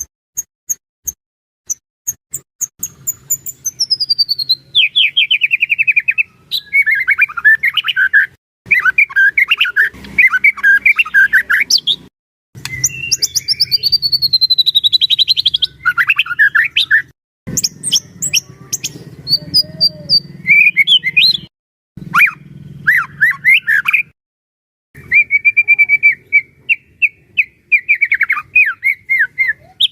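White-rumped shama (murai batu) in full song: loud, varied phrases of rapid trills and long falling whistles, broken by sudden short gaps.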